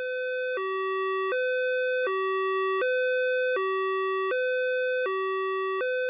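Electronic two-tone police siren, switching between a lower and a higher tone about every three quarters of a second.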